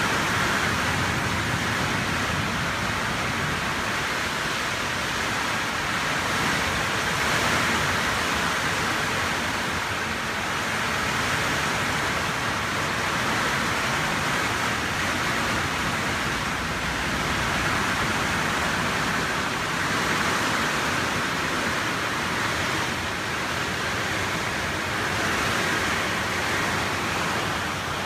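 Heavy rain pouring down steadily, easing and swelling slightly now and then.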